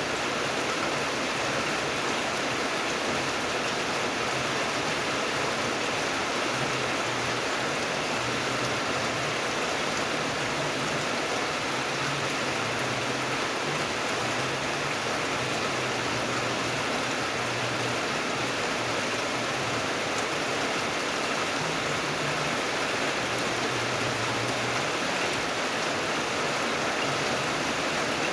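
Rain falling steadily, an even hiss that neither builds nor breaks.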